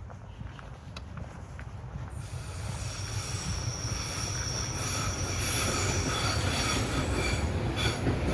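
S-Bahn train approaching and growing louder, its rumble rising. From about two seconds in, its wheels squeal on the rails in several high, steady tones.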